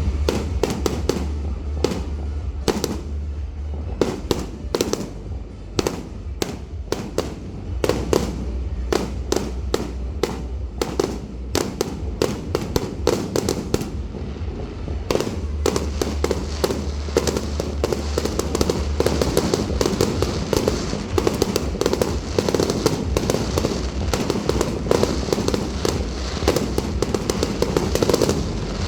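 Fireworks display: aerial shells bursting in a rapid series of sharp bangs and crackles, coming thicker and faster in the second half, with music playing underneath.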